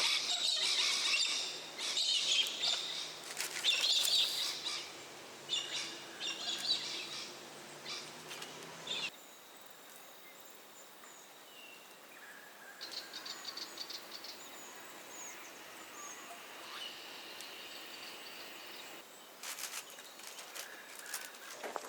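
Several birds calling and chirping, busy and loud for the first half, then fainter scattered chirps after an abrupt change. A run of sharp clicks comes near the end.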